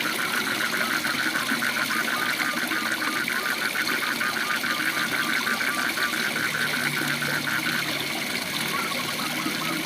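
Waterfall water rushing steadily, over which an animal calls in a rapid, even run of short notes, several a second. The calls break off about eight seconds in and start again near the end.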